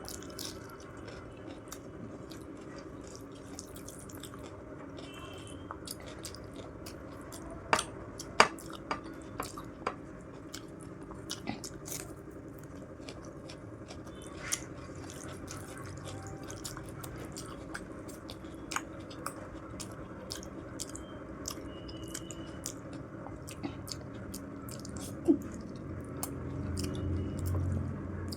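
Close-up chewing and biting of food, with many small wet mouth clicks and smacks. A few sharper, louder clicks come about eight seconds in and again near the end.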